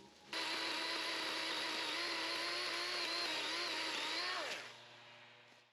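Chainsaw running at full speed for about four seconds, then its pitch drops and it winds down as the throttle is released.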